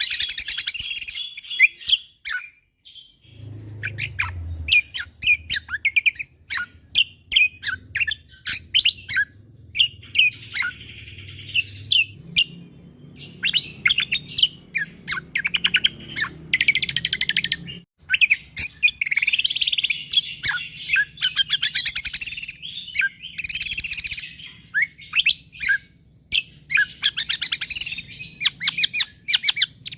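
A cucak kombo (kecial kombok) songbird singing a dense, rapid song of sharp chirps and fast rattling trills with only brief pauses, the tight 'shooting' delivery of a bird in full song.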